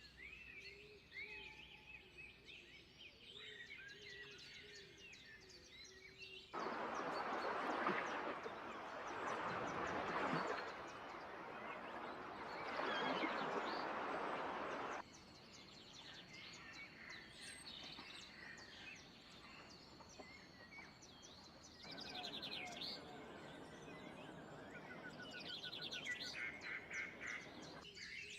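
Wild birds chirping and trilling in short calls. A loud, even hiss cuts in suddenly a few seconds in and stops just as suddenly about halfway through. A fainter hiss returns near the end, with a fast trill over it.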